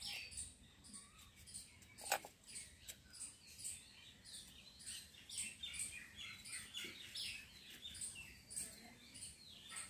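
Small birds chirping over and over, faint, with one sharp click about two seconds in.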